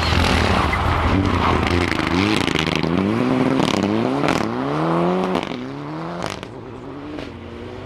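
Rally car passing and accelerating hard away, with loud tyre and gravel noise as it goes by. The engine note climbs and drops back several times as it shifts up through the gears, with a few sharp cracks, then fades into the distance about five seconds in.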